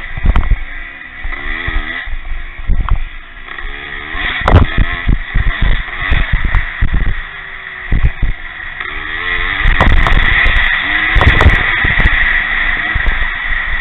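Pre-1965 motocross motorcycles racing, their engines revving up and falling back again and again as they work the track. Wind buffets the microphone in repeated low thumps.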